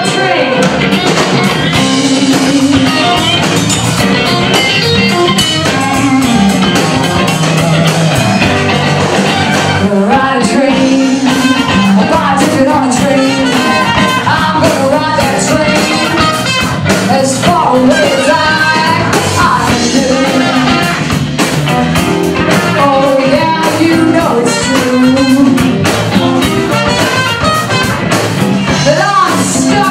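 Live blues band playing a song with a steady beat.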